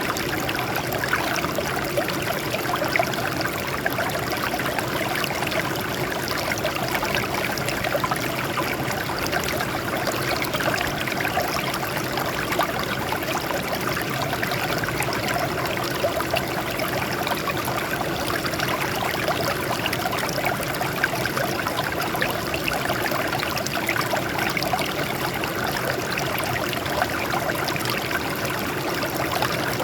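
Water flowing and trickling over rocks in a small stream, a steady splashing rush with no break.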